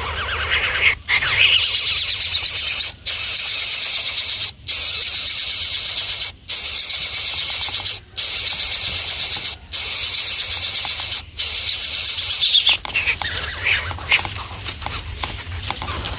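Nestling birds begging with harsh, hissing screeches. Each call lasts about one and a half seconds, with short breaks between them, repeated about six times.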